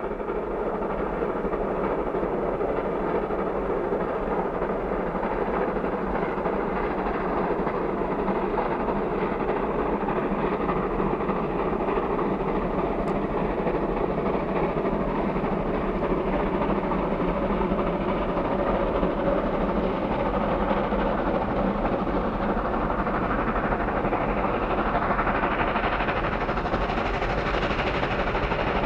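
Steam-hauled train running, a continuous rumble of locomotive and wagons that fades in at the start and turns sharper near the end.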